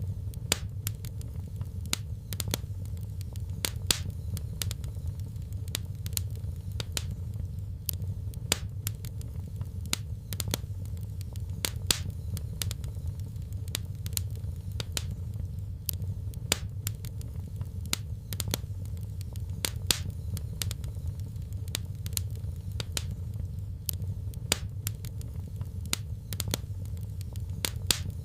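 Wood fire crackling in a fireplace: irregular sharp pops, a few each second, over a steady low rumble of the flames.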